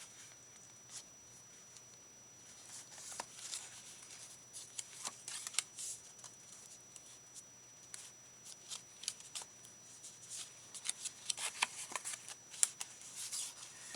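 Paper and small craft supplies being handled: light rustling and scattered small taps and clicks, sparse at first and busier over the last few seconds.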